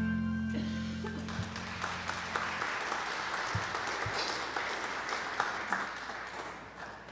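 Congregation applauding as the final held chord of a song dies away over the first two or three seconds. The clapping thins out near the end.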